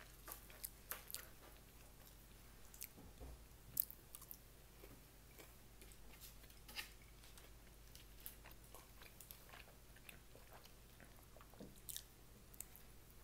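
Faint chewing and biting of food, with scattered small clicks and crunches; one sharper click about four seconds in and another near the end.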